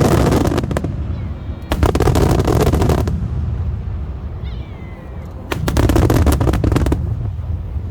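Large aerial fireworks shells bursting in three loud waves, each a boom followed by dense crackling, with a low rolling rumble continuing between the waves.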